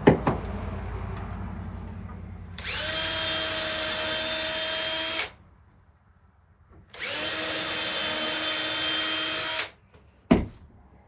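Electric drill motor run twice at a steady speed, each run about two and a half seconds, most likely driving out rusty screws. A knock near the start and another near the end.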